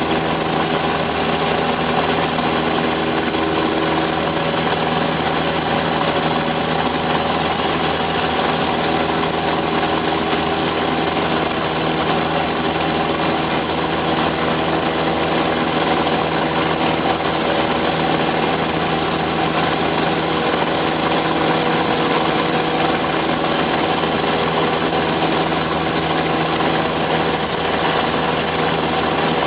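Cessna 172's single piston engine and propeller running at a steady, unchanging speed, a constant drone with no change in pitch.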